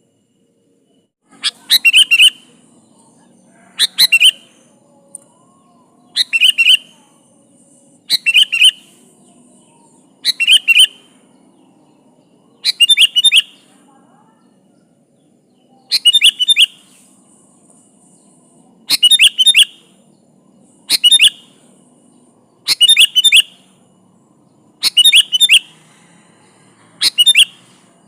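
Sooty-headed bulbul (kutilang) singing: short, bright, bubbly phrases repeated about every two seconds, around a dozen in all, with a slightly longer gap midway.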